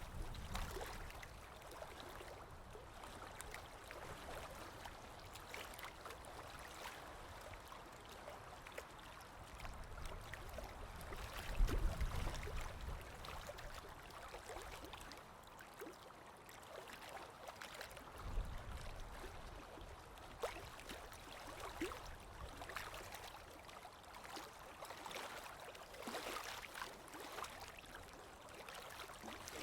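Sea waves washing onto a shore: a steady hiss of moving water with fine crackle, and a heavier low surge of a breaking wave near the middle, then another a few seconds later.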